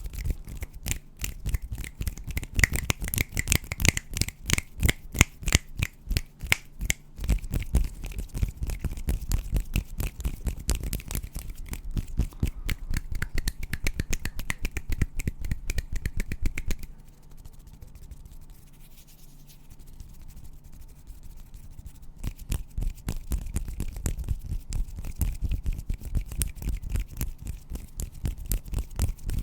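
ASMR hand sounds: hands rubbing and fingers brushing and tapping in many quick, crackly strokes. They go quieter for a few seconds just past the middle, then pick up again.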